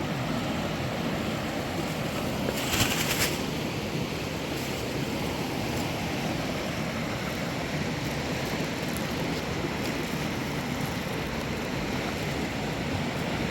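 River water rushing steadily, with a brief louder hiss about three seconds in.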